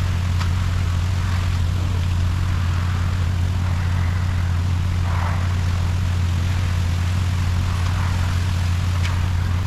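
Concrete mixer truck's diesel engine running steadily, a deep, even drone, with a couple of faint clicks near the start and near the end.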